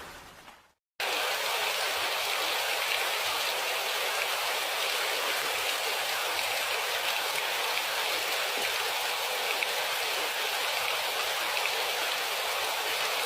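Steady rain: an even hiss of falling rain, mostly high with little low rumble. It starts abruptly about a second in, after a deeper sound fades out into a moment of silence.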